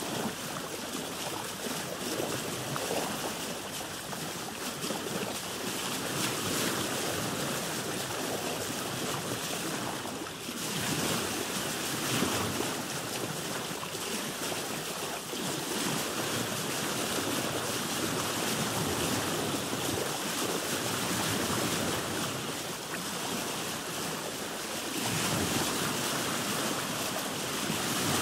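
Sea waves washing around a boat: a steady rushing of water that ebbs briefly partway through and swells again near the end.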